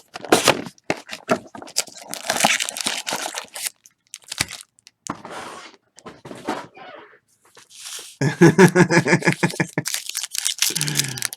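Trading-card pack wrappers being torn open and crinkled by hand: bursts of tearing and crinkling, heaviest in the first few seconds, with a brief voice-like sound about eight seconds in.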